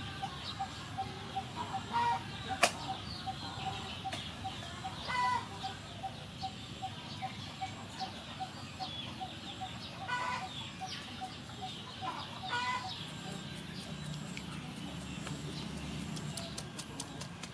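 Outdoor birdsong: a bird repeats one short note about four times a second, stopping about twelve seconds in, while chickens cluck a few times. A single sharp knock comes about two and a half seconds in.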